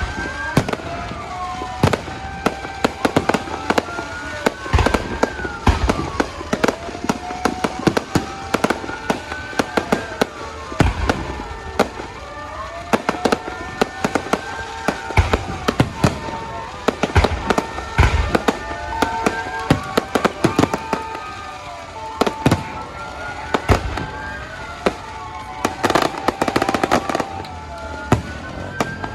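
Fireworks going off continuously: a dense run of sharp bangs and crackling pops, over overlapping whistles that rise and fall in pitch every couple of seconds.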